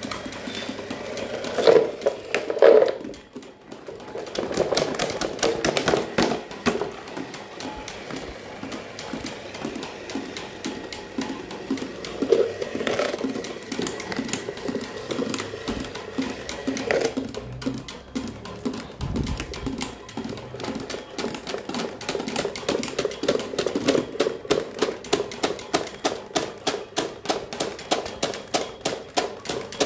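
Electric fan running with a fast, rhythmic clatter, with a few louder knocks about two and three seconds in; the clatter settles into very even pulses over the last several seconds.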